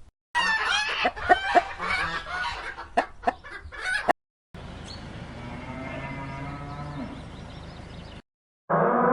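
Chickens clucking and squawking, many short calls, for about four seconds. After a brief silent break comes a quieter, steadier stretch with a low drawn-out tone. Just before the end, after another cut, a loud rising wail begins.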